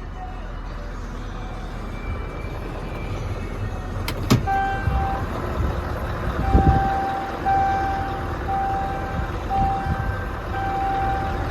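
Scania R580 V8 diesel engine running, with a sharp click about four seconds in. From then on a reversing alarm beeps, a steady tone repeating about once a second, the sign that the truck is backing up.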